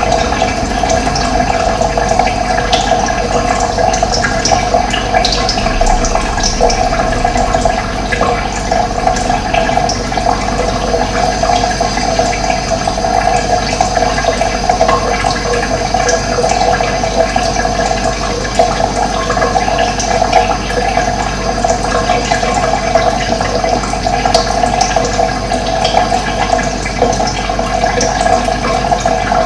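Running water flowing steadily, a dense continuous gurgle with no pauses.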